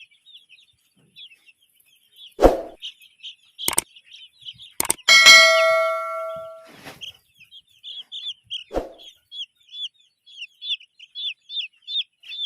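Broiler chicks peeping continuously in short, high, rapid calls. Several knocks come through the peeping, and the loudest event is a metallic clang about five seconds in that rings and fades over about a second and a half.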